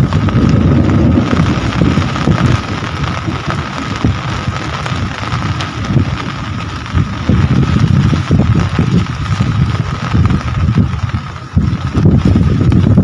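Heavy rain falling steadily, under a deep rumble that swells and fades every second or two.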